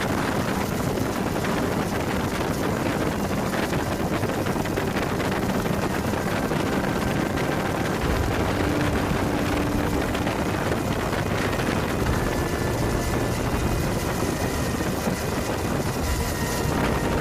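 Steady, loud rumble and rushing noise of running machinery, with wind on the microphone.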